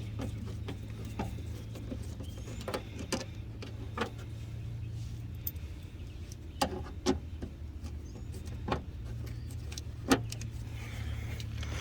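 Scattered light clicks and knocks of hands and tools handling parts and wiring in a car, over a steady low hum.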